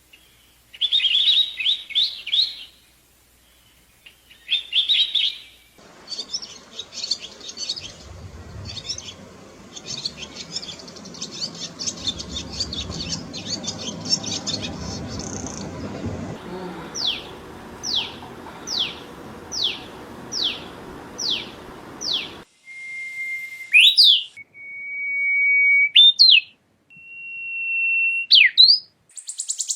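Songbirds calling and singing in a series of separate clips, with abrupt changes between them. Short chirps come first. A stretch of trills over a rougher background follows, then a run of quick falling notes. Near the end there are long steady whistles broken by sharp upward sweeps.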